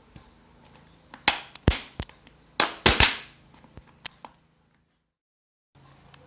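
A used plastic bottle being handled, giving several sharp cracking snaps in two clusters, then one lighter click. The sound then drops out completely for over a second.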